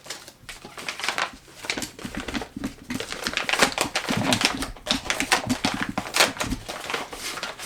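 Packaging being handled and opened, a dense run of irregular crackles and rustles.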